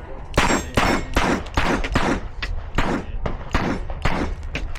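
.22 rimfire pistol firing a rapid timed string at steel targets, a sharp crack about every half second, ten or so in all.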